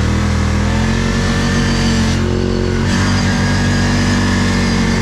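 ATV engine running under steady throttle, its pitch holding level, with a short let-off of the throttle a little over two seconds in before it picks up again.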